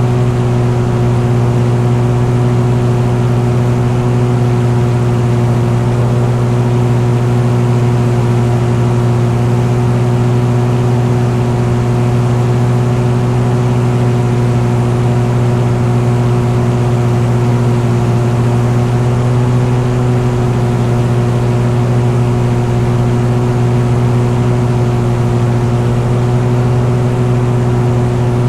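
Engine running at a steady speed, a constant low drone that holds the same pitch throughout.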